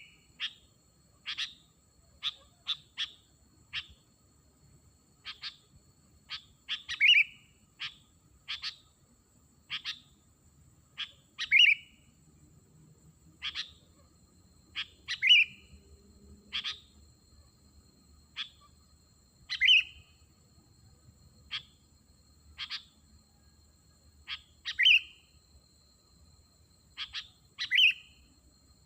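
Sooty-headed bulbul (kutilang) calls used to lure wild bulbuls: short, sharp notes repeated every second or so, with louder falling calls about every four to five seconds.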